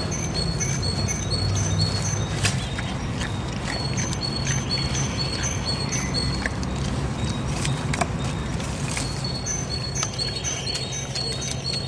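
A small bird singing a two-note phrase, a high note then a lower one, repeated quickly over and over, with a few scattered clicks and a steady low hum behind it.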